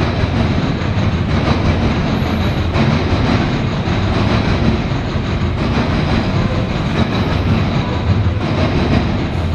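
CSX coal train's freight cars rolling past, a steady loud rumble of steel wheels on rail with clattering over the joints.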